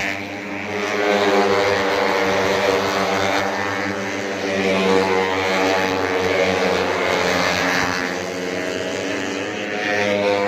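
Four-stroke 150cc underbone race motorcycles running at high revs in a race, several engines droning together with their pitch shifting slightly up and down as they go through the gears and pass.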